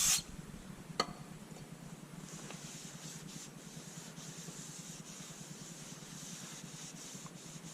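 Faint rubbing hiss of a rag wiping grease off a flywheel, with a single sharp click about a second in.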